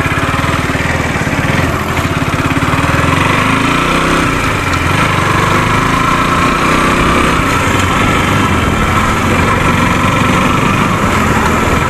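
Small motorcycle engine running steadily, its note shifting about four seconds in.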